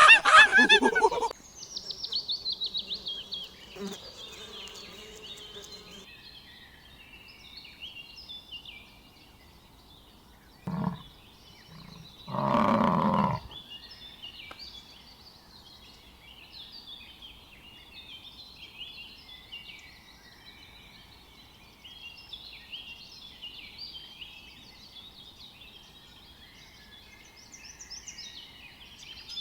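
Animal calls over continuous bird chirping: a loud call in the first second, then two shorter, deeper calls about eleven and thirteen seconds in, the second longer and louder.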